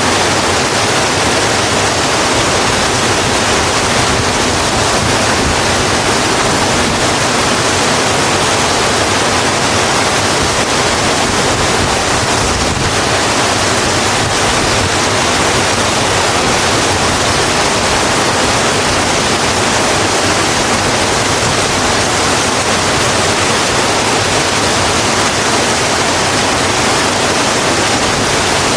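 Steady heavy rain: an even, unbroken hiss of falling rain with no distinct drops or thunder.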